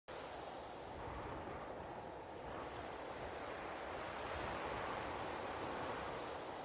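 Night ambience of crickets chirping in a steady, even pulse, over a continuous rushing background noise. It cuts in abruptly from silence.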